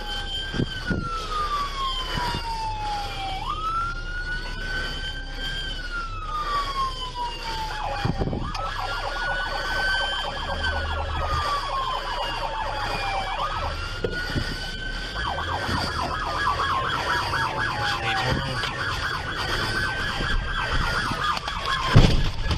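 Police car siren wailing, each cycle rising quickly and then falling slowly, about once every five seconds. In the second half a faster pulsing siren tone overlaps it, and a sharp thump comes near the end.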